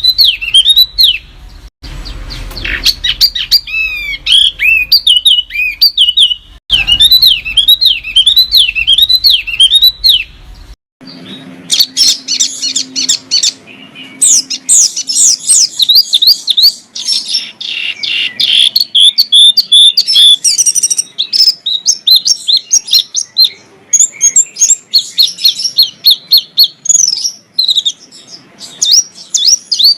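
Small songbirds singing in a spliced compilation. For about the first ten seconds a bird repeats quick dipping whistled notes. After an abrupt cut, a dense run of rapid high chirps and trills follows.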